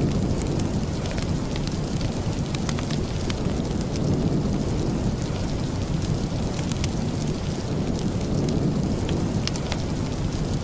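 Steady rain with a deep low rumble underneath and many small sharp ticks scattered throughout.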